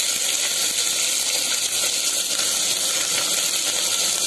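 Freshly added bottle gourd pieces sizzling in hot oil in an aluminium pot: a steady, high hiss of frying.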